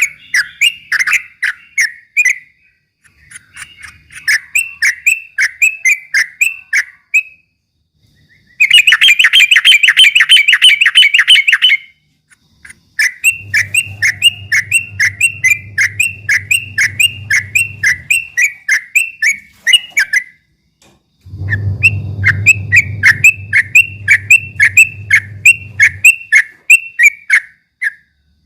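Yellow-vented bulbul (trucukan) singing its rapid chattering song: phrases of quick, repeated bright notes, several a second, broken by short pauses, with one especially fast, loud burst of notes about a third of the way in. A low hum runs beneath two of the later phrases.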